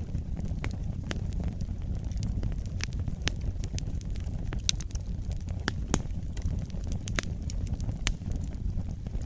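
Wood fire burning in a fireplace: a steady low rumble of flames with frequent, irregular sharp crackles and pops of burning logs.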